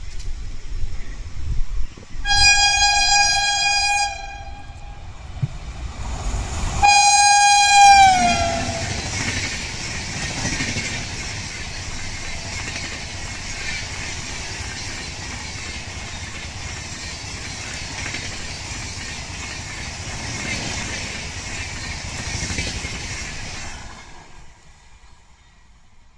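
Indian Railways express train passing at speed. Its locomotive horn sounds twice: a steady blast about two seconds in, and a second blast that drops in pitch as the locomotive goes by. The coaches then rush and rattle past for about fifteen seconds before the sound fades near the end.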